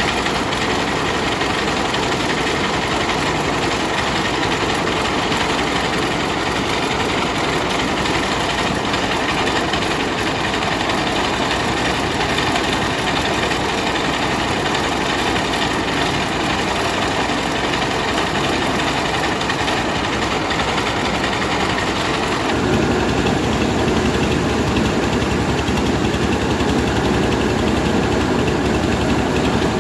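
Rice milling machine running steadily while milling paddy. About three-quarters of the way through, the sound changes abruptly, turning slightly louder and heavier in the low end, then runs on steadily.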